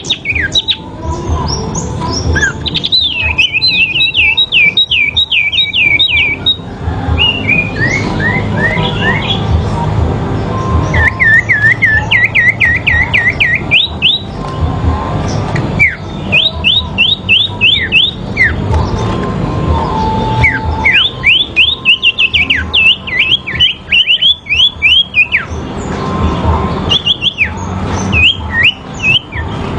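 Sirpu songbirds singing against each other in a song duel: runs of rapid, repeated high chirps, each lasting a few seconds, that answer and overlap one another.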